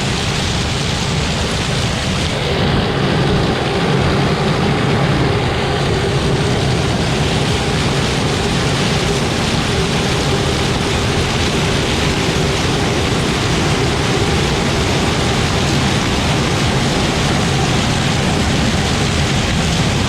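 Tractor engine running steadily, a loud, noisy drone close to the microphone that swells slightly about two and a half seconds in.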